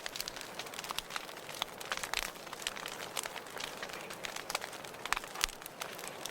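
Wood fire burning in a fireplace, crackling with frequent irregular sharp pops over a steady hiss.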